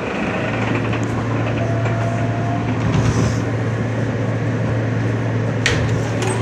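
R160 subway car heard from inside while running: steady rolling rumble with a low hum throughout. A brief faint higher tone comes early on, and a sharp click sounds near the end.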